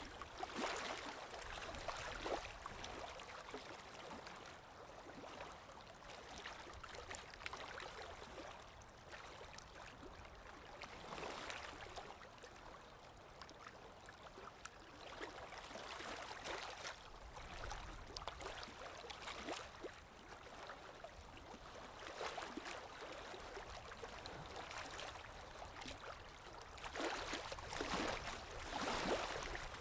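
Small stream trickling and gurgling, with louder swells of splashing every few seconds, the loudest near the end.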